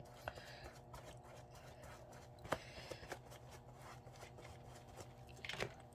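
Faint handling noises from craft work: scattered small clicks and taps, with a sharper tap about two and a half seconds in and a few more near the end, over a steady low hum.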